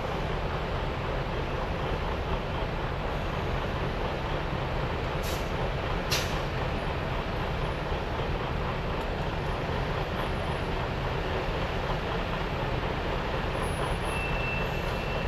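Semi-truck running with a steady engine and road rumble, with two sharp clicks about five and six seconds in.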